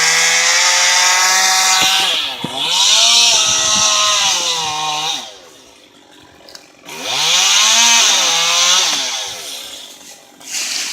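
Gas chainsaw running at full throttle and bogging in pitch as it cuts through a tree limb. It drops to a low idle for a couple of seconds about halfway through, then revs and cuts again before easing off near the end.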